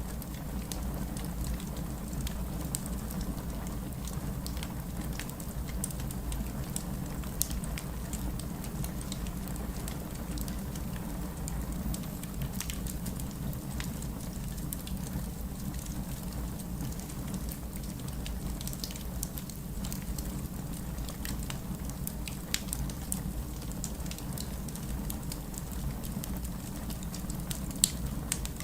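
Rain falling steadily together with a crackling wood fire: a continuous low rush with scattered sharp pops and crackles throughout.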